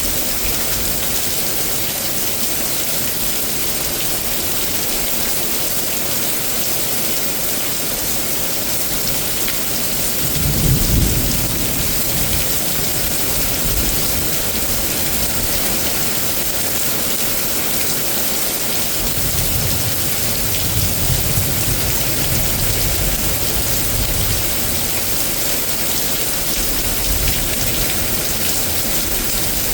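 Thunderstorm: rain falling steadily throughout, with a loud clap of thunder about ten seconds in and a longer low rumble of thunder rolling on from about nineteen to twenty-five seconds.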